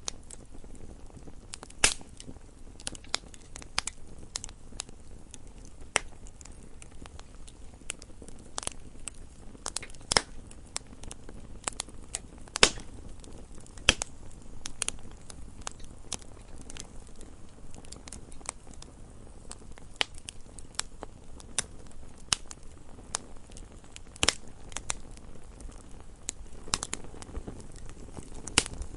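Wood fire burning in a fireplace: irregular sharp crackles and pops, a few louder snaps among many small ones, over a low steady rumble of the flames.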